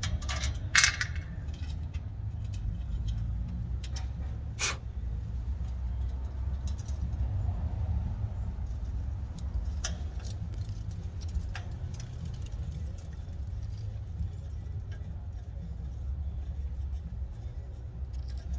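Scattered sharp metallic clicks and taps from a Schrader valve-core tool being handled and screwed in, the loudest about a second in, over a steady low rumble.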